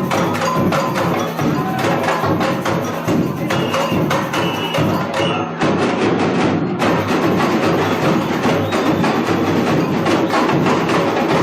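University samba bateria drumming a dense, driving samba rhythm: deep bass drums under snare drums and other hand percussion, played loud and without a break.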